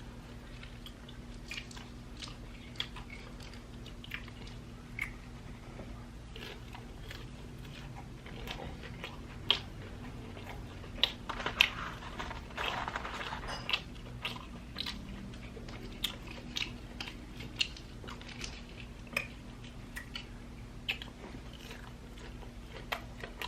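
Close-up chewing and biting of crispy fried chicken tenders, with scattered crunches and wet mouth clicks, heaviest around the middle.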